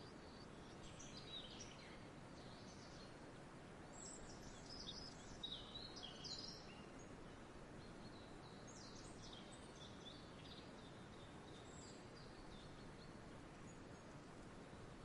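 Faint outdoor ambience: a steady low hiss of background noise with small birds chirping in scattered short calls, busiest about a third of the way in.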